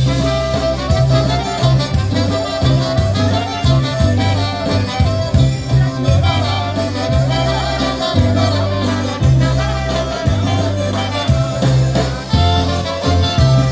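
Live polka band playing an instrumental break between the sung verses of a Polish-language polka, the bass stepping between notes on a steady beat.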